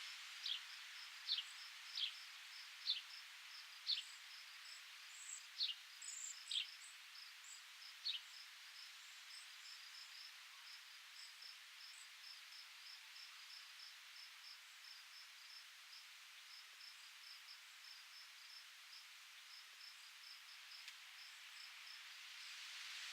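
A bird repeats short, sharp down-slurred call notes about once a second for the first eight seconds. After that a steady run of short high chirps, several a second, carries on over a faint hiss of breeze.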